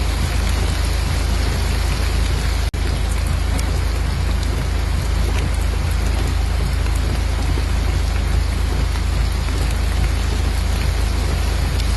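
Steady heavy rain, with a deep low rumble underneath; the sound cuts out for an instant a little under three seconds in.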